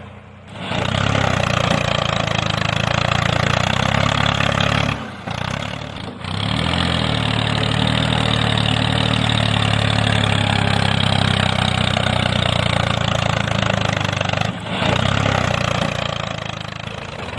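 A small motor running steadily, dropping out briefly about five, six and fourteen and a half seconds in.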